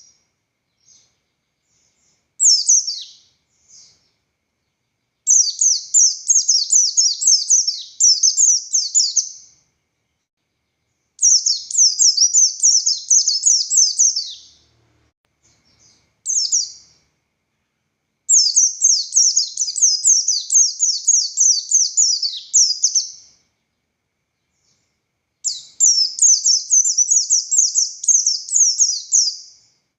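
A pleci buxtoni white-eye singing in energetic bouts of rapid, high-pitched twittering notes. Each bout lasts a few seconds, with short pauses between them.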